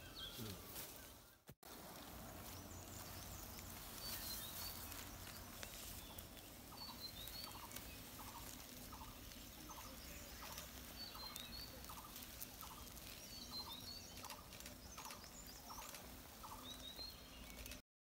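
Faint outdoor ambience with birds calling: scattered short, high chirps and, from about a third of the way in, a steady series of short lower notes about one and a half a second. The sound cuts off just before the end.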